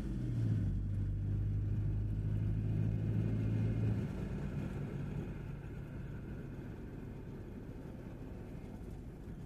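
Vehicle engine droning steadily while driving, heard from inside the cab, with tyre and road noise underneath. The engine hum drops away about four seconds in, leaving a steadier road rumble.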